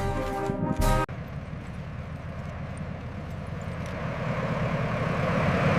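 Brass-heavy orchestral music with drum hits cuts off abruptly about a second in, giving way to the steady noise of aircraft engines that grows louder.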